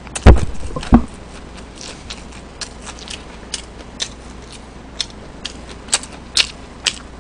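Close-miked chewing of boneless fried chicken: scattered short mouth clicks and smacks, with two loud thumps, one about a third of a second in and one about a second in.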